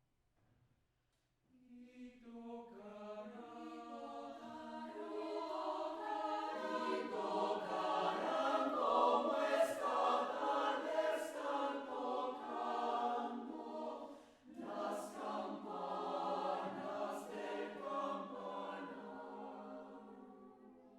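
Choir singing a cappella in several parts. The voices come in after a moment of silence, swell to a full peak, break off briefly about two-thirds of the way through, then continue and fade away.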